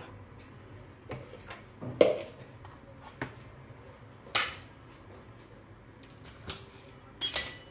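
Lemons being squeezed for their juice: a few scattered short knocks and squishy noises, the loudest about two seconds in and again midway.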